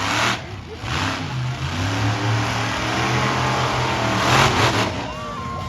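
Monster truck engine revving, its pitch swelling and falling, with loud surges of noise now and then.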